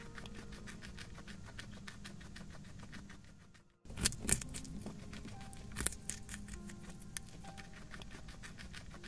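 Guinea pig crunching food pellets: a rapid run of small clicks, with faint background music. The sound drops out briefly a little before halfway, then comes back with a few louder crunches.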